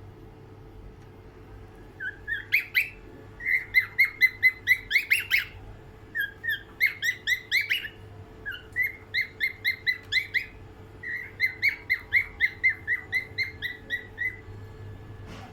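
Cockatiel singing: starting about two seconds in, several phrases of quick repeated whistled notes, about five a second, with short pauses between the phrases.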